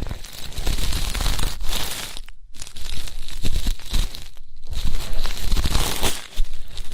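Ear-cleaning ASMR: an ear pick scratching and rubbing close against a microphone's ear, a dense crackly scraping with two brief pauses.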